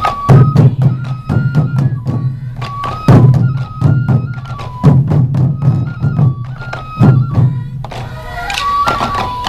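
Sansa Odori festival music: a group of taiko drums beaten together in a driving rhythm, with a bamboo flute playing a melody in short, stepped notes over the drumming.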